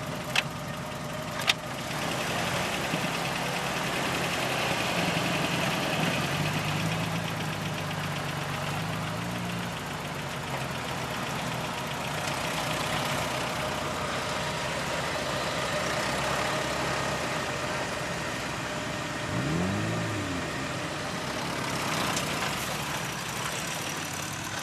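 Off-road vehicle engine running steadily at low speed, with a brief rev and drop about twenty seconds in. Two sharp clicks come in the first couple of seconds.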